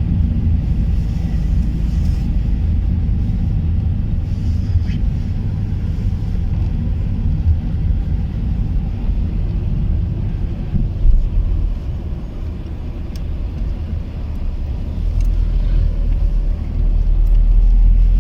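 Car driving on the road: a steady low rumble of engine and road noise, growing louder near the end.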